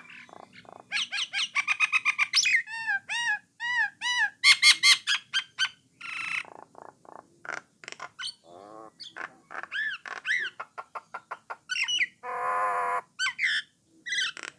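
Jalak nias (brown myna) singing a varied run of arched, repeated whistled notes, fast rattling trills and clicks, with a long harsh grating note near the end.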